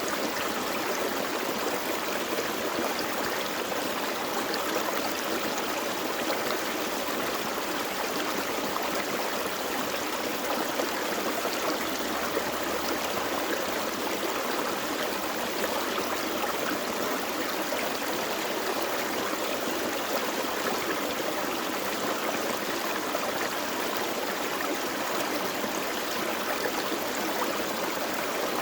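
A small creek flowing steadily, a continuous rushing and burbling of water over stones.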